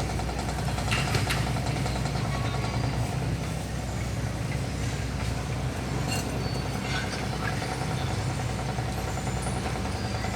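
A steady low mechanical hum, like a motor running at an even pace.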